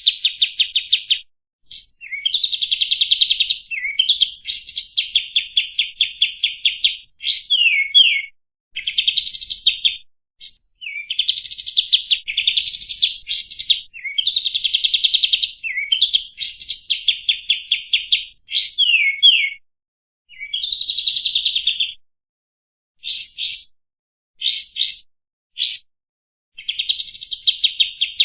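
Sooty-headed bulbul (burung kapas tembak) singing: repeated rapid, rattling trills a second or two long, with sharp slurred notes between them. Near the end the phrases thin out into a few short separate notes with pauses.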